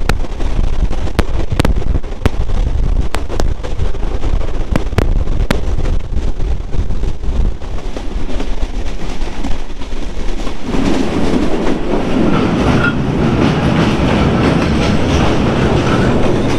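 Benapole Express passenger train running at speed on broad-gauge track, heard from an open coach door: a steady rumble with the wheels clicking over the rail joints. The rumble grows louder and fuller about two-thirds of the way through.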